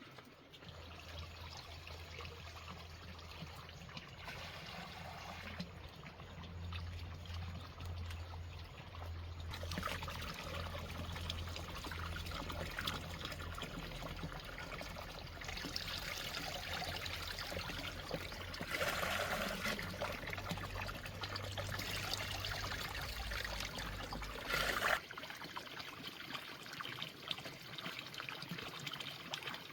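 Water trickling, growing louder about a third of the way in. Near the end comes a brief louder burst, and a low steady hum underneath stops at the same moment.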